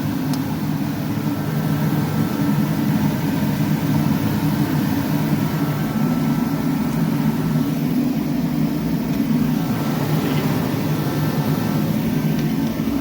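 A steady low mechanical drone, a machine or blower running without change.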